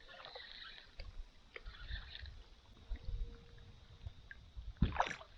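Small knocks and water sounds of fishing from a kayak, over a low, uneven rumble, with one sharp louder hit about five seconds in.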